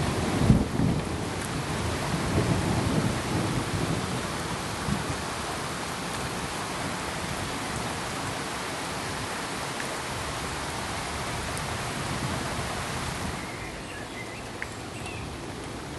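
Steady rain hiss with a low rumble of thunder through the first few seconds. A little past the two-thirds mark the sound drops and turns duller, with a few faint drip-like ticks.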